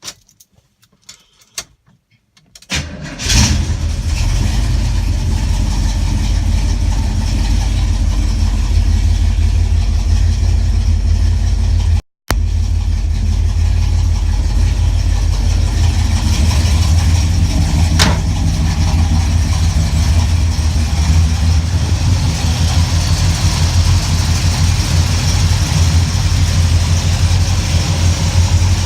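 Car engine starting after a few clicks about three seconds in, then idling steadily with a strong low rumble, on its first start with a newly fitted 700R4 automatic transmission. The sound cuts out for a moment about twelve seconds in.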